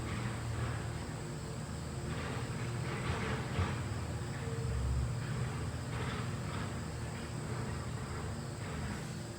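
LG ductless mini-split air conditioner running, a steady low hum from its compressor and fan. Insects chirp over it in passes that come and go.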